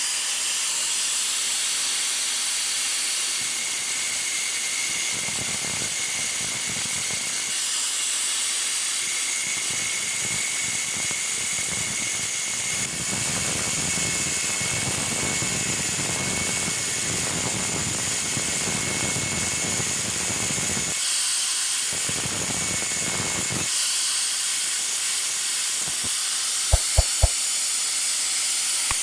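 A power tool running steadily with a high hiss and a thin whine, with a few short knocks near the end.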